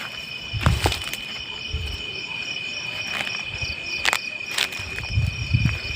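Night insects, crickets, chirring steadily in a high continuous drone with a faster pulsing trill above it. A few sharp clicks and low thumps cut through about a second in and again around four seconds in.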